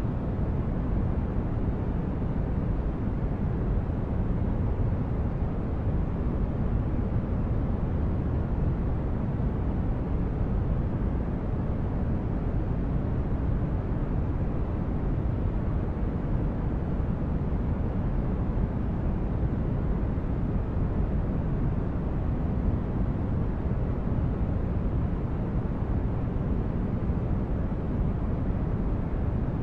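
Steady, unchanging noise sleep track, heavy in the low end so that it sounds like a deep, dull rumble rather than a bright hiss.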